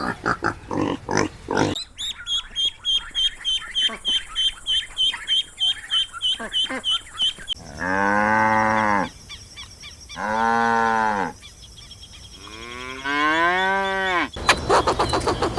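Animal calls: a run of quick, rhythmic calls, then three long, low calls that rise and fall in pitch.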